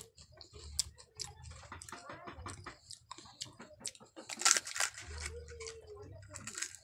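Close-miked chewing and wet mouth sounds of eating pani puri, with crisp crackles. A loud crackle comes about four and a half seconds in, a short hummed tone just after it, and more crackling near the end as a hollow puri shell is picked up and poked open.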